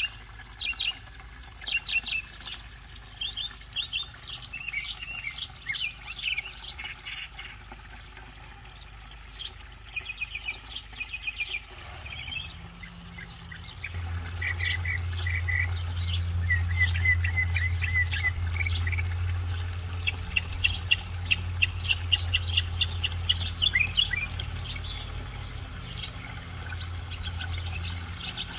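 A songbird singing: phrase after phrase of quick repeated chirps and short trills. A low steady hum comes in about halfway through and stops near the end.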